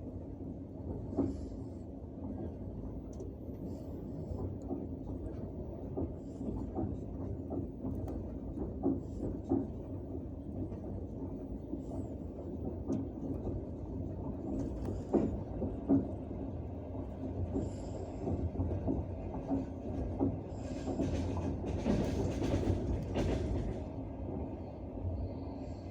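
Passenger train carriage running on the rails, heard from inside: a steady rumble and hum with the wheels clicking over rail joints, louder and hissier for a few seconds near the end.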